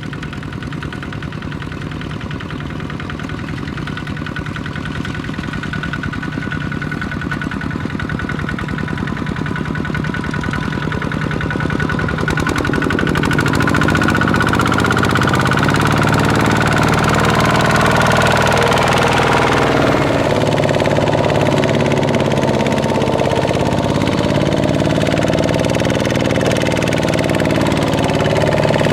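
Kubota ZT155 single-cylinder diesel engine of a small two-wheel tractor running steadily, growing louder about halfway through as its pitch shifts.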